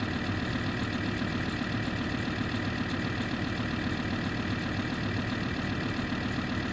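Alfa Romeo 159 2.4 JTDm's five-cylinder turbodiesel idling steadily after a cold start. It is running evenly with a newly fitted fuel rail pressure sensor.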